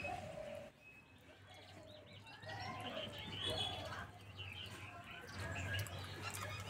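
Birds chirping faintly, a scatter of short calls.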